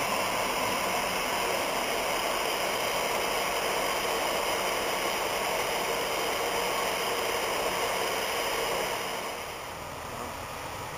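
Class 59 diesel locomotive in Hanson livery passing with its train of hopper wagons: a steady running noise of wheels on rail as the wagons roll by, easing off about nine and a half seconds in as the train clears.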